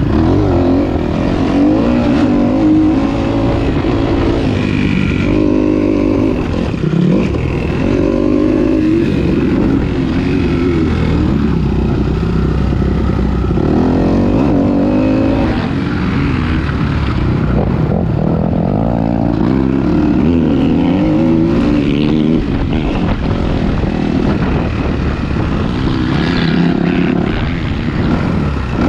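Motocross bike engine revving hard and backing off over and over as it is ridden round a dirt track, its pitch climbing and dropping every few seconds, with low wind rumble on the rider-worn GoPro's microphone.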